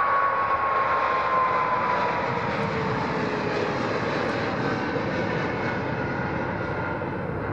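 Boeing 777-200ER jet engines at takeoff power as the airliner departs, a steady engine noise with a whine that slides slowly down in pitch and a level that slowly falls as it moves away.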